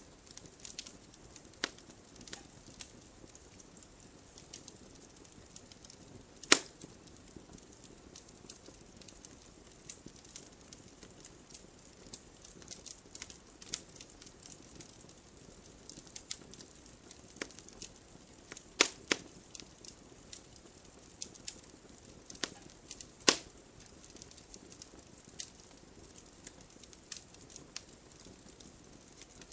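Wood fire crackling: an irregular scatter of small sharp snaps over a faint hiss, with three louder pops spread through.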